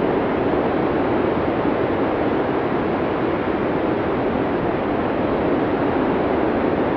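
Blizzard wind blowing in a steady, dense rush without gusts or whistling, heaviest in the low middle and dull at the top.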